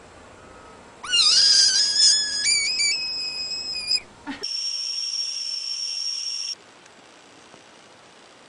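High-pitched whistling: a first whistle about a second in rises and then jumps up in pitch in steps over about three seconds. After a brief break a second, steady and hissy whistle holds for about two seconds and cuts off suddenly.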